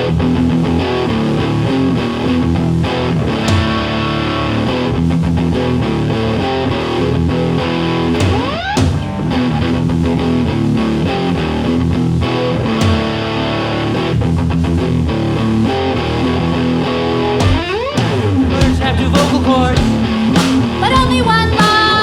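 A rock band playing live: a guitar-led instrumental passage before the vocals. It has a rising slide about a third of the way in and another past the middle.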